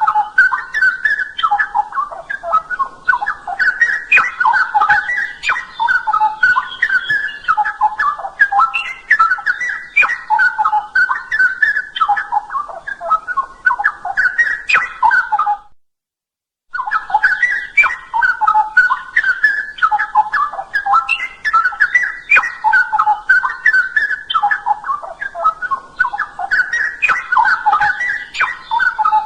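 Straw-headed bulbul (cucak rowo) singing a loud, continuous run of rich, bubbling whistled phrases. The song cuts off for about a second roughly halfway through, then carries on.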